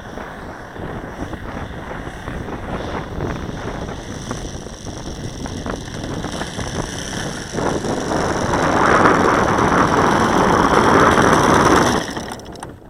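Saito 180 four-stroke glow engine of an RC model plane running with an 18x6 propeller. It grows much louder about eight seconds in, then drops away sharply near the end.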